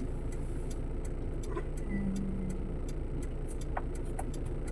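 Motor vehicle engine running steadily in traffic, with faint quick high ticks and a brief low steady tone about two seconds in.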